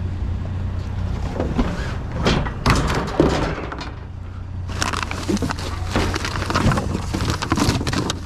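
Trash being rummaged and pulled about in a metal dumpster: bursts of clattering, knocks and thunks of junk shifting, in two spells with a short lull between, over a steady low hum.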